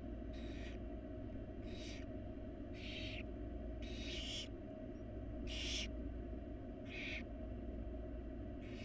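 Barn owl nestlings giving their rasping, hissing food-begging calls, a series of short hisses about one every second or so, over a steady low hum.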